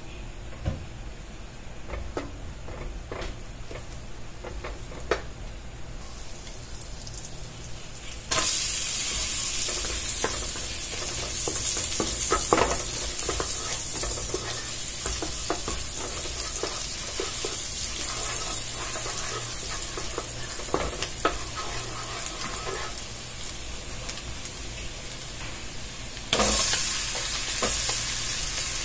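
Butter melting in a nonstick wok while a wooden spatula scrapes and taps the pan. About eight seconds in, chopped garlic goes into the hot butter and a steady sizzle starts suddenly, with the spatula stirring through it. Near the end the sizzle jumps again as sliced onion is added.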